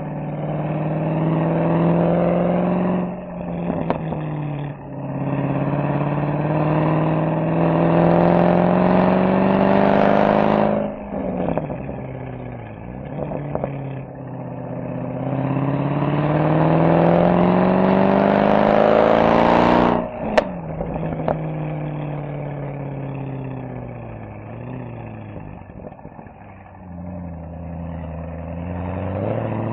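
Mercedes-AMG SL63's V8 exhaust accelerating hard: a short rise with gear changes about 3 and 5 s in, a long rising pull to about 11 s, then lift-off with the revs falling and a brief blip. It pulls hard again to about 20 s, lifts off with a sharp crack, coasts down, and accelerates again near the end.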